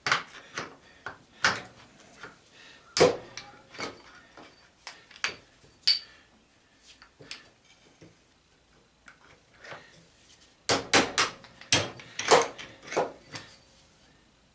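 Hand tools and metal sander parts clinking and knocking together on a workbench: scattered sharp clinks, then a quick run of several knocks near the end.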